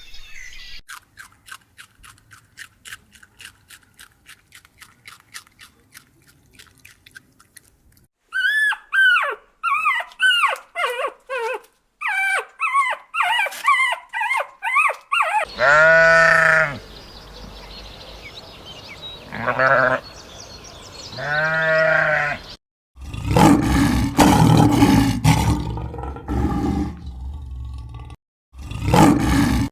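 A sequence of different animal calls: a faint fast clicking trill, then a quick run of high chirps, then three loud pitched calls, then a loud harsh, noisy call near the end.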